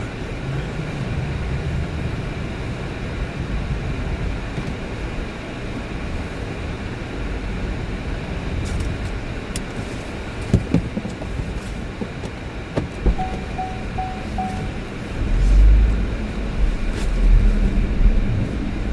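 Car driving, heard from inside the cabin: a steady low rumble of engine and road noise, with a few clicks. A short series of four quick beeps sounds a little past the middle, and heavier low thuds come near the end.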